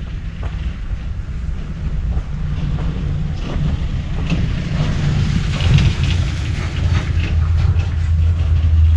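Low engine rumble of a heavy vehicle going by, growing louder toward the end.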